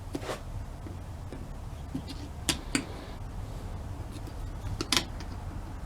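Small metal parts of a vintage starter motor being handled and set down, giving about five sharp clicks and clinks, the loudest near the end, over a steady low background hum.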